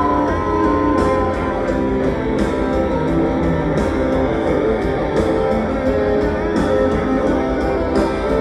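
Live rock band playing an instrumental passage: an electric guitar leads over a steady drum beat and bass, with no singing.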